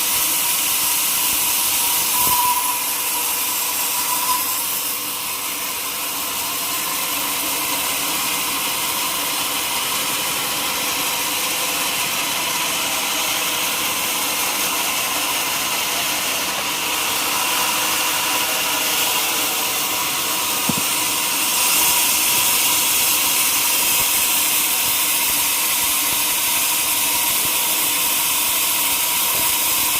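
Sawmill saw running through a teak log: a steady, loud hissing machine noise with a faint steady whine, and small knocks now and then.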